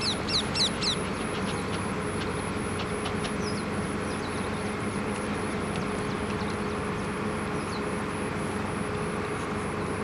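A few quick, high, falling bird chirps in the first second, over a steady outdoor noise with a faint low hum that runs on after them.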